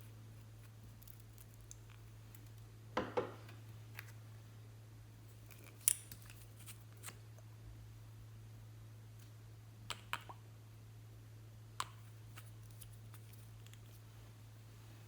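A handful of short, sharp clicks and snips from handling small objects, a cluster about three seconds in and single ones later, over a steady low hum.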